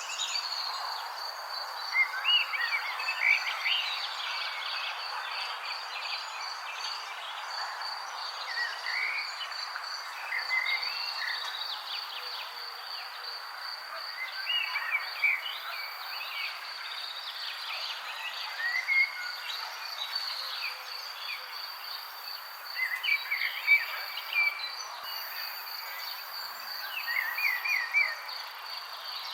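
Birds chirping in short scattered bursts over a continuous high, rapidly pulsing trill and a steady background hiss.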